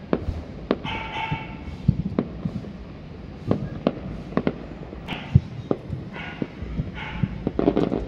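Fireworks exploding: a string of sharp bangs and cracks at irregular intervals, at times several a second.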